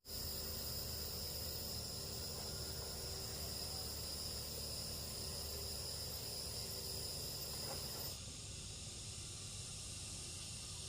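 Insects chirring steadily in several high continuous tones. About eight seconds in, the sound drops suddenly to a fainter hiss.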